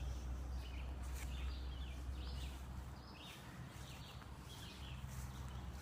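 Birds chirping in short repeated notes, roughly one a second, over a steady low rumble of wind or handling on the microphone.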